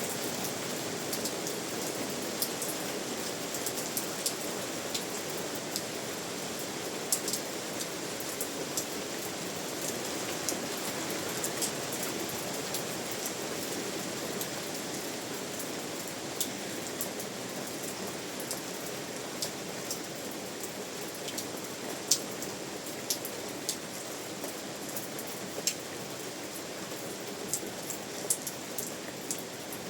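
Steady rain, a continuous hiss with many individual drops striking sharply and irregularly on top of it.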